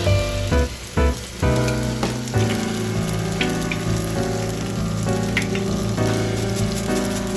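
Food frying in a pan, with a light sizzle and scattered small pops, under background music.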